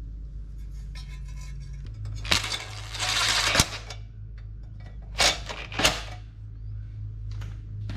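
Hand tools working on metal while an exhaust gasket is refitted on a small engine: a burst of quick ticking, a short rasping whir, and several sharp metallic clinks and clanks, over a steady low hum.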